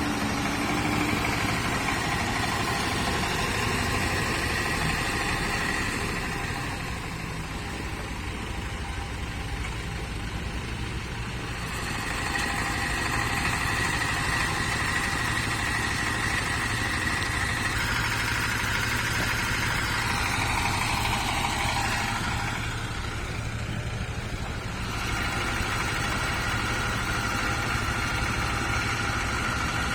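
A vehicle engine idling steadily, dipping slightly in level twice.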